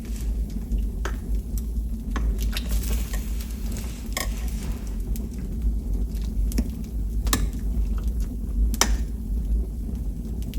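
Cooking utensils clinking and tapping against a pot, half a dozen sharp knocks spread out, over a steady low rumble.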